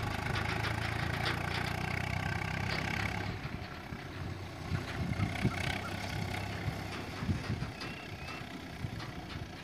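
Tractor's diesel engine running steadily, dropping away after about three seconds and leaving scattered low knocks and thumps.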